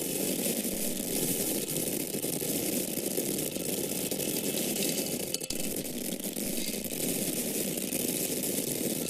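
Grains of corn falling in a continuous stream of many small ticks, with a brief lull about five and a half seconds in.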